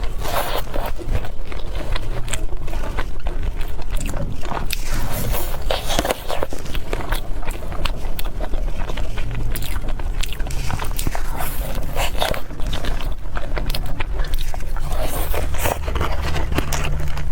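Close-miked chewing and biting into soft cakes and pastries: a continuous run of small wet clicks, smacks and crackles, with a steady low hum underneath.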